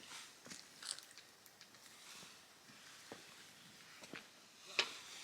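A person eating: faint chewing and biting with scattered crunches, and one sharper click near the end.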